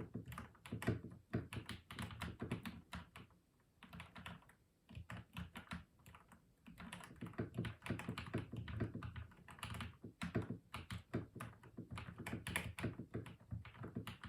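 Typing on a custom mechanical keyboard: rapid runs of deep, thocky keystrokes, with a few brief pauses between bursts.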